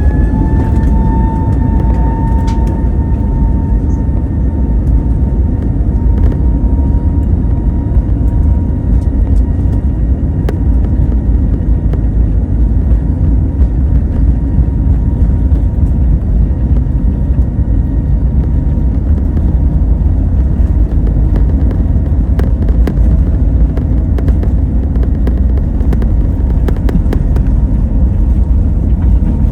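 Airbus A320neo jet engines running at takeoff power during the takeoff roll: a loud, steady rumble, with a high engine tone that rises slightly at first and fades over the first several seconds.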